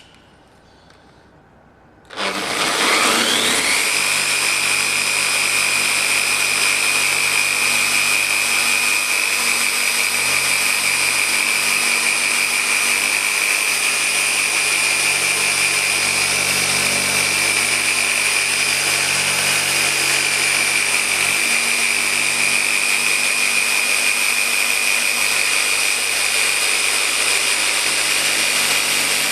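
Random orbital car polisher with a 19mm throw starting up about two seconds in, its motor whine rising and then holding steady as it runs a microfiber pad with polish over car paint to remove 4000-grit sanding marks.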